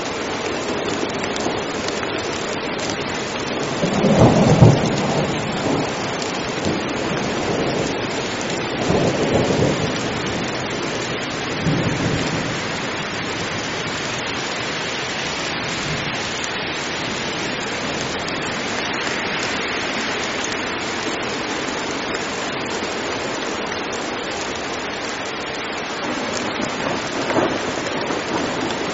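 Heavy rain falling steadily, with rolls of thunder. The loudest roll comes about four seconds in, weaker ones follow a few seconds later, and another comes near the end.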